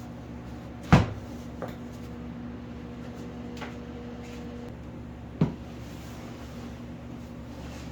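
SUV camper fittings knocking as they are handled during disassembly: two sharp knocks about four and a half seconds apart, with a couple of lighter clicks between. A steady low hum runs underneath.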